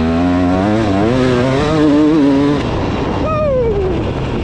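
KTM 300 two-stroke dirt bike engine under throttle, its revs climbing and wavering for about two and a half seconds, then dropping sharply a little past three seconds in as the throttle is rolled off.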